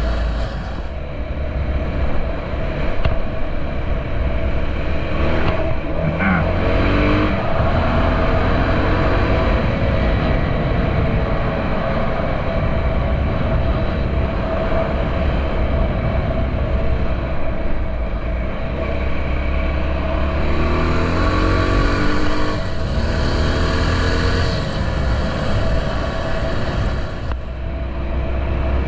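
Honda XR650L dual-sport motorcycle's air-cooled single-cylinder engine running under way, with wind rushing on the microphone. The engine pitch swings up and down about six seconds in and again a little past twenty seconds, as the rider works the throttle and gears.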